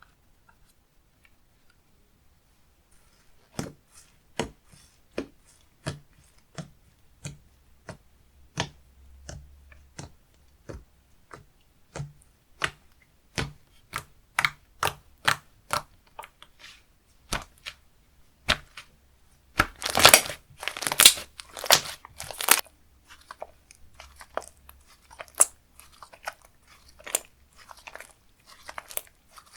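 Slime being pressed and stretched by hand, giving sharp separate pops and clicks about one every half to one second, with a louder cluster of crackling pops about twenty seconds in.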